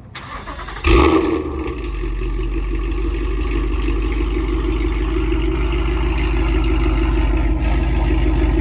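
2018 Ford Mustang GT's 5.0 V8 warm-starting through a Corsa Xtreme cat-back exhaust and stainless long-tube headers: a short crank, a loud flare as it catches about a second in, then settling into a steady, loud idle.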